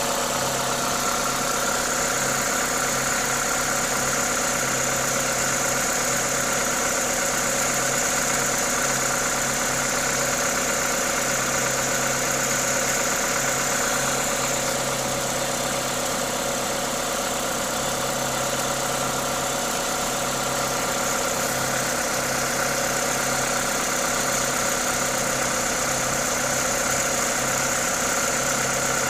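Toyota 2ZZ-GE four-cylinder engine idling steadily, with a constant high hiss from its aftermarket induction kit; this is the engine's normal running noise.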